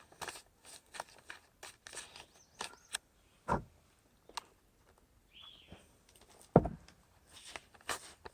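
Plastic packet of instant mashed potatoes crinkling and rustling in short bursts as it is squeezed by hand to mix the powder with cream, with two dull knocks, one near the middle and a louder one later.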